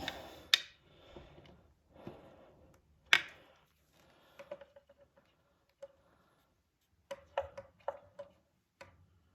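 Metal tool clicks and taps with short ringing pings, one sharper knock about three seconds in: a wrench being worked on a small 8 mm bolt on the lawnmower engine, opened a crack as a possible oil drain plug.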